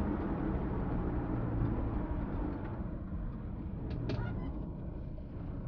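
VW T3 Syncro van driving, its engine and drivetrain running steadily, then easing off and getting quieter about halfway through. A few short clicks near the end.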